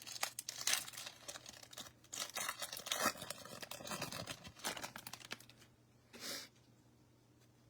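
A trading card pack wrapper being torn open and crinkled, with crackling and rustling for about five seconds, one short rustle a little after six seconds, then it stops.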